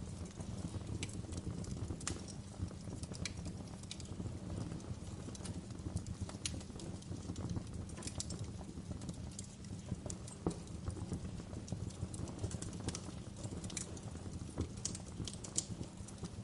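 Wood fire crackling: irregular sharp pops and snaps, several a second, over a steady low rumble of burning flames.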